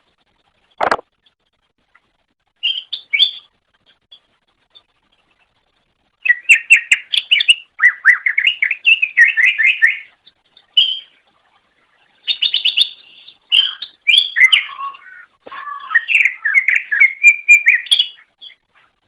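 Green leafbird (cucak ijo) singing: short phrases, then long runs of rapid, varied chattering notes, broken by brief pauses. A single sharp click comes just under a second in.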